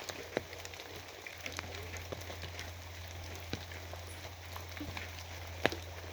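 Steady rain with individual drops tapping and splatting on a surface, a few sharper drop hits standing out, the loudest near the end, over a steady low hum.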